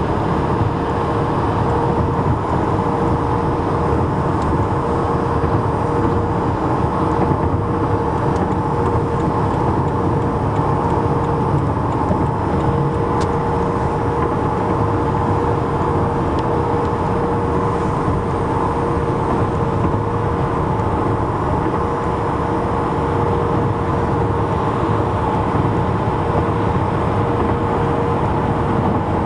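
Steady highway traffic noise of vehicles and transport trucks at speed: tyre and engine noise with a constant hum, unchanging throughout.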